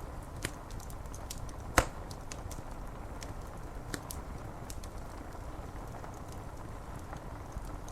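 Wood fire crackling with scattered sharp pops, one much louder pop a little under two seconds in, over a steady wash of rain on window glass.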